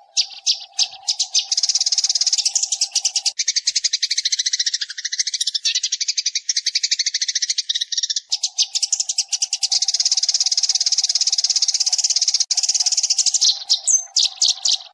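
Sparrows chattering: a dense run of rapid, high chirps used as a decoy call to lure sparrows to a trap. For a few seconds in the middle the chatter shifts lower and the faint low hum underneath drops out, then the fast chirping resumes.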